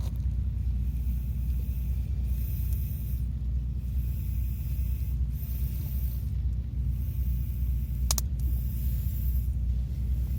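Wind buffeting the microphone with a steady low rumble, and a high hiss that swells and fades every second or two. A single sharp click comes near the end.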